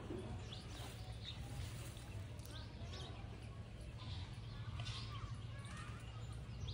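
Scattered bird chirps and short whistled calls over a steady low background hum.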